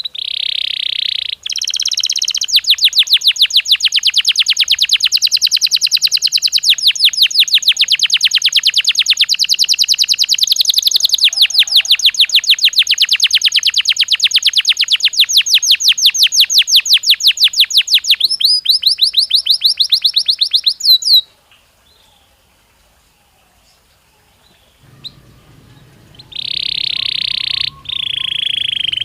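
Belgian canary singing: a short held note, then a long rapid trill of repeated notes lasting nearly twenty seconds that breaks off suddenly. After a few quiet seconds come two drawn-out whistled notes near the end.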